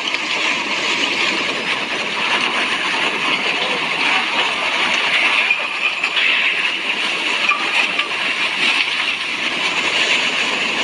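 Steady rushing noise of a mud flow, water and rocks churning down a channel, without letup.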